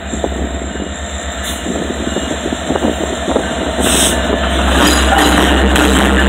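Union Pacific diesel locomotives passing close by: a steady low engine rumble with scattered sharp clicks, getting louder as the lead unit goes past about four seconds in and settling into a broad steady rolling noise.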